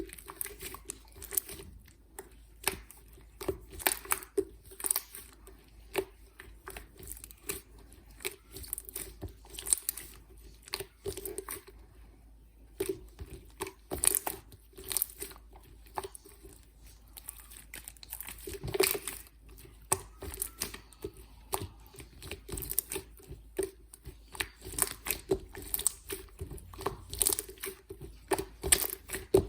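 Slime being squeezed, folded and pressed by hand, making irregular clicks and pops several times a second.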